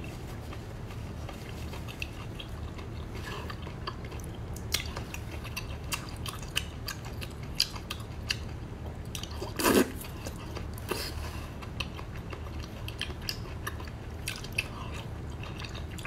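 A person chewing and biting cooked octopus tentacles: scattered wet mouth clicks and smacks, one louder a little past halfway, over a steady low hum.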